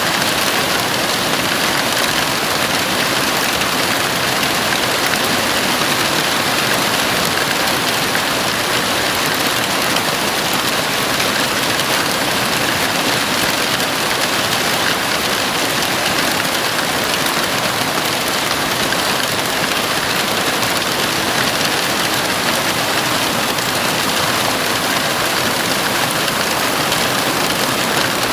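Heavy rain falling steadily on a house roof, a dense, even hiss of drops with no breaks.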